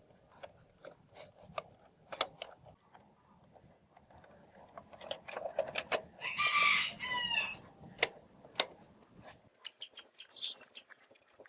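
Scattered light clicks and knocks, with a rooster crowing once for about a second and a half just past the middle, the loudest sound, its pitch dropping at the end.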